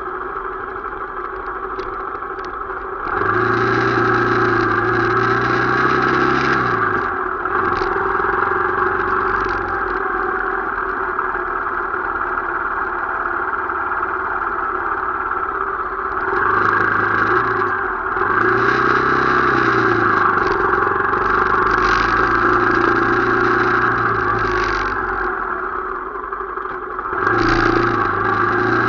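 Motorcycle engine during a ride, picking up speed and easing off several times, over a steady hiss.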